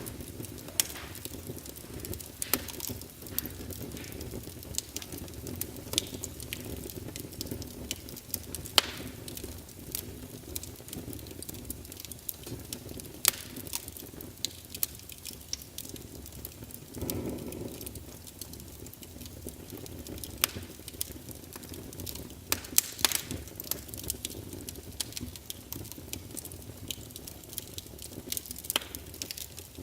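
Wood fire burning in a fireplace: a steady low flame rumble with irregular sharp crackles and pops of the burning logs, and a brief whoosh of flame about seventeen seconds in.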